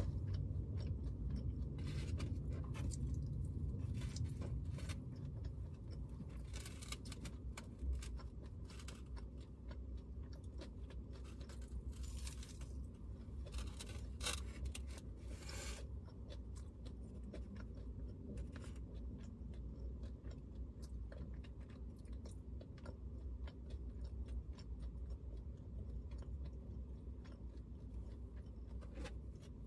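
Close-up chewing and crunching of dry food eaten by hand, many small crackles over a steady low hum, with a few longer noisy bursts around the middle.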